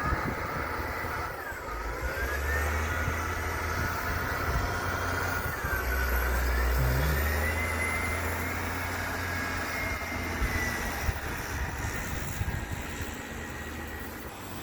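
Snowplow truck passing by: a low engine rumble that swells a couple of seconds in and peaks around the middle, with a high whine wavering up and down over it.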